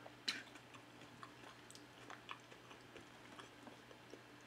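Faint wet chewing of a mouthful of creamy macaroni salad: soft scattered mouth clicks, with one sharper lip smack about a third of a second in.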